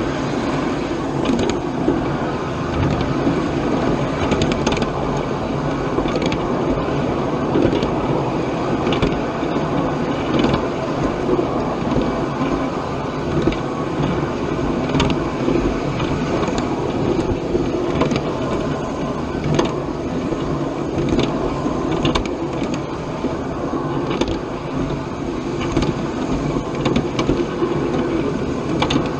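Live steam miniature train running on its track: a steady rumble with scattered sharp clicks from the wheels on the rails.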